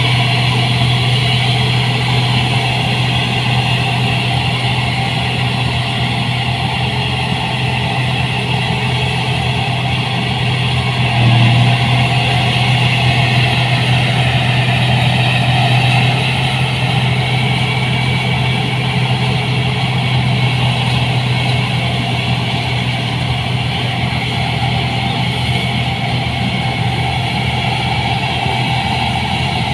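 New Holland 8060 combine harvester's engine running steadily, with a brief rise in level about eleven seconds in.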